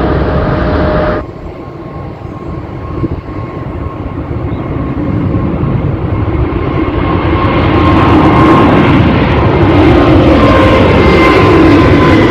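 Jet airliner engines at takeoff power. The noise breaks off suddenly about a second in, and then a jet builds steadily over several seconds to full loudness, with a whining tone that slowly falls in pitch.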